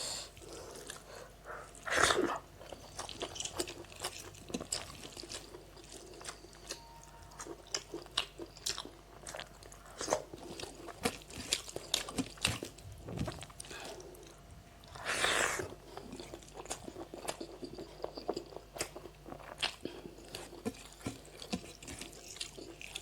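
A person eating close to the microphone: steady chewing with frequent wet mouth clicks and crunches. Two louder, longer noisy sounds stand out, about two seconds in and again about fifteen seconds in.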